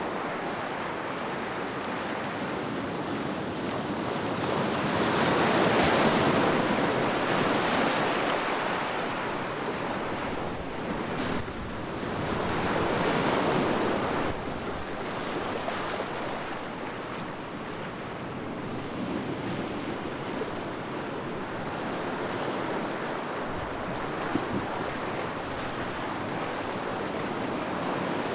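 Sea waves breaking and washing ashore, the surf swelling louder around six seconds in and again around thirteen seconds, then settling back.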